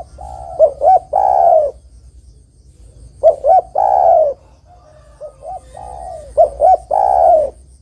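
Spotted dove (tekukur) cooing: three phrases, each a few short coos ending in a long drawn-out coo that falls in pitch.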